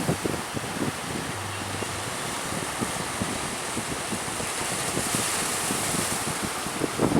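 Strong wind buffeting the microphone over the steady rush of open-sea waves.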